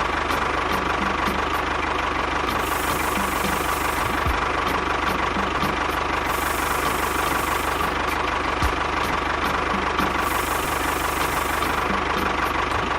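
The mini tractor's engine or motor running steadily at an even idle, with a constant whine over a regular low pulsing.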